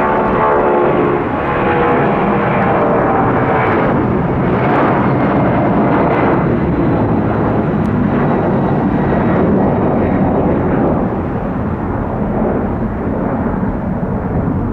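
Boeing 757-200 jet taking off, its twin engines at takeoff thrust in a loud, steady roar. A whine in the first few seconds falls in pitch as the jet passes, and the roar eases slightly near the end.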